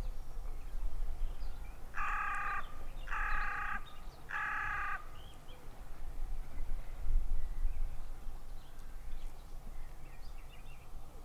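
A bird calling three times in quick succession, each call lasting about two-thirds of a second.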